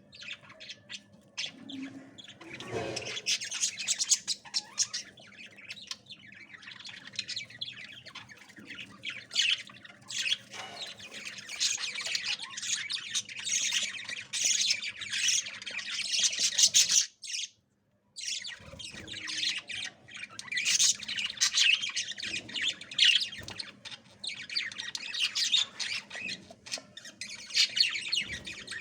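Budgies chirping and squawking rapidly and continuously, with a sudden break of about a second a little past the middle.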